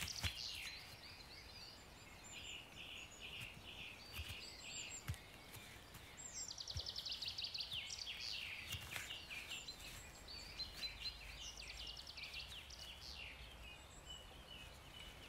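Songbirds singing faintly in a forest: quick trills and repeated chirps, with a fast run of notes falling in pitch about halfway through.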